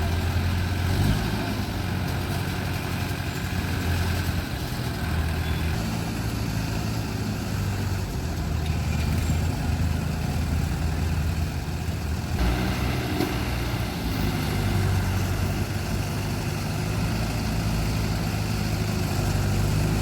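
A truck's diesel engine idling steadily with a low, even hum.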